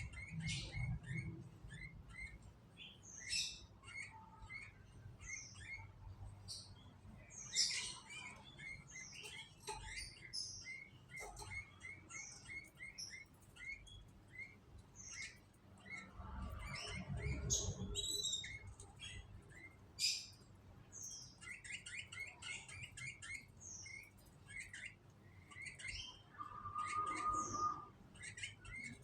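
Canaries chirping: quick runs of short chirps with sharper high calls mixed in, plus a brief low rumble about halfway through.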